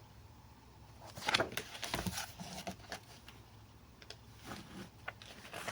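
Rustling and light taps from a paper picture book being handled, its page being turned.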